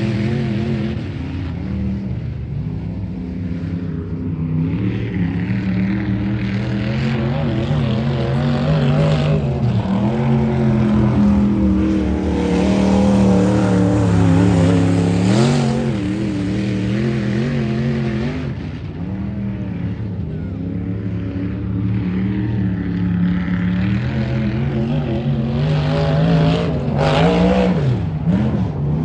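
Dirt-track race car engines running laps in practice. The pitch climbs and drops repeatedly as the cars accelerate and lift, with the loudest passes around the middle.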